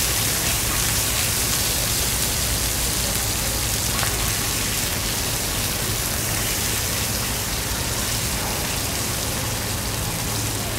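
Chuck flap tail steak pieces with mushrooms, peppers and garlic sizzling steadily in oil on a cast-iron pot-lid griddle.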